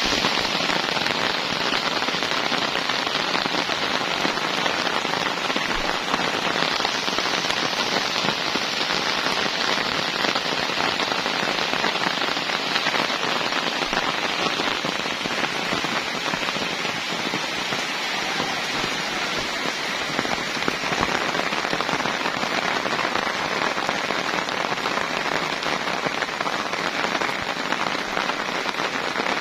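Heavy rain falling steadily, a loud, dense, even hiss of many drops.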